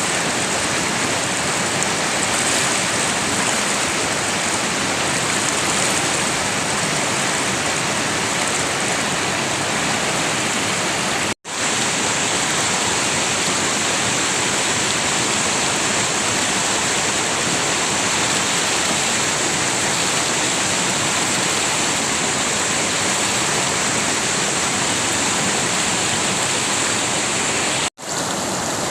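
River water flowing steadily, a dense even wash of water noise, broken by two very short drop-outs about eleven seconds in and near the end.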